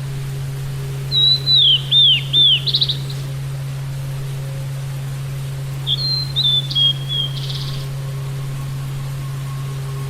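Sulingan gunung (tledekan gunung) songbird singing two short whistled phrases about five seconds apart, clear notes sliding down around 3 to 4 kHz and each ending in a quick buzzy trill, over a steady low electrical hum.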